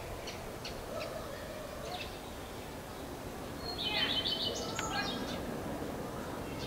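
A songbird singing: a few short high chirps in the first two seconds, then a rich warbling phrase lasting about a second and a half, beginning nearly four seconds in.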